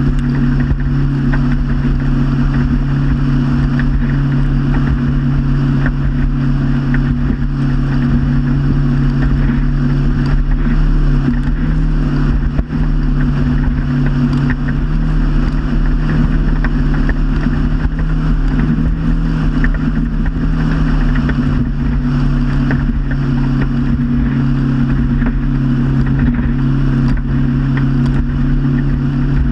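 Motorboat engine running steadily at cruising speed, with a constant rush of water and wind. Its pitch rises slightly for several seconds in the middle, and there is one brief dip about twelve seconds in.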